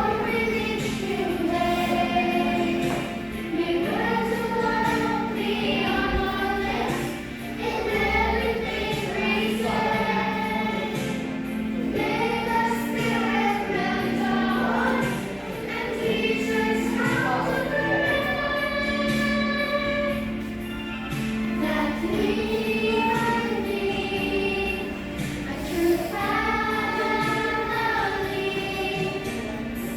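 Music: a choir singing a slow song over a steady accompaniment.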